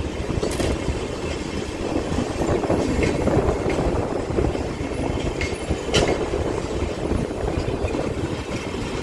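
Indian Railways LHB passenger coaches rolling past, their wheels rumbling steadily on the track with a few sharp clicks, the loudest about six seconds in.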